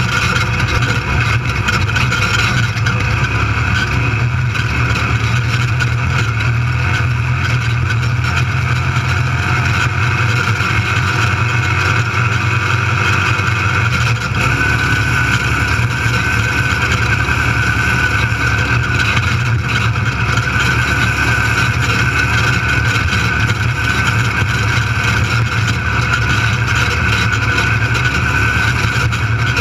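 Off-road desert race car's engine running steadily at speed, heard from inside the cockpit, its low drone shifting slightly about halfway through.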